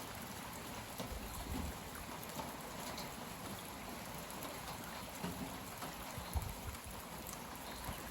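Moderate steady rain falling after a cold front has passed, an even hiss of drops, with a few brief low thumps about a second in and again near six and a half seconds.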